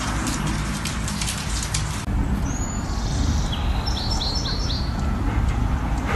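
For about two seconds, crackly hiss with fine clicks. Then small birds chirping outdoors, including a quick run of four short falling chirps, over a steady low rumble.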